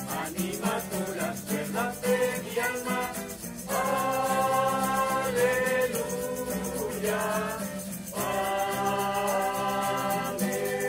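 Choir singing a hymn: quicker sung syllables at first, then two long held phrases.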